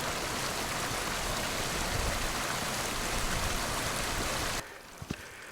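Steady rush of running water, like a mountain stream, that cuts off suddenly about four and a half seconds in; a couple of faint footstep-like clicks follow.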